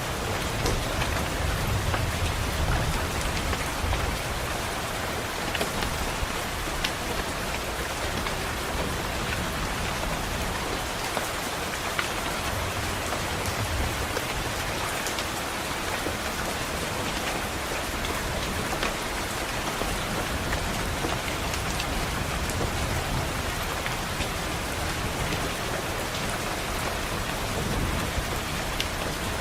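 Steady rain on a window glass, a dense even hiss with scattered drop ticks. A low rumble of distant thunder swells and fades near the start, again around the middle and once more near the end.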